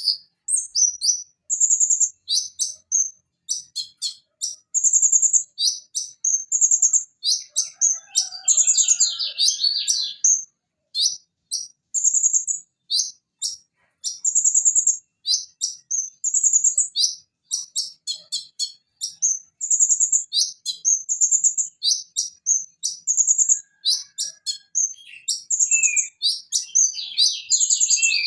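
Van Hasselt's sunbird (konin) singing a long, fast run of short, very high chirps with brief gaps between phrases. It breaks into denser, lower trills twice, about a third of the way in and near the end.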